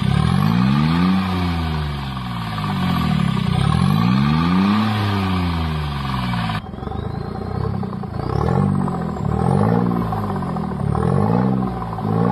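Three-cylinder car engine revved up and down in long, slow sweeps. About halfway through, after an abrupt change, it gives a series of quicker, shorter rev blips.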